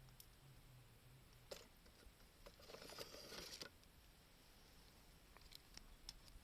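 Faint crackling of a wood campfire: scattered small pops and ticks, with a brief soft rush of noise about three seconds in.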